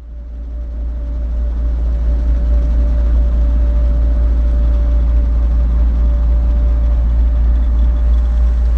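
Small training helicopter's engine and rotor running, a steady deep drone with a thin steady whine, fading in over the first second or two.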